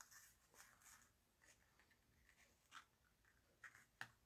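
Near silence, with a few faint, brief rustles and taps of card stock and paper being handled on a craft table.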